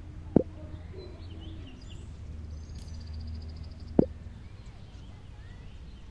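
Outdoor ambience with a steady low hum and faint bird chirps, including a short rapid trill midway. Two short, sharp thuds stand out, one just after the start and another about three and a half seconds later.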